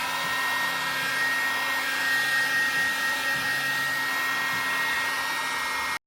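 Electric heat gun running, a steady rush of hot air with a high fan whine over it. It cuts off suddenly near the end.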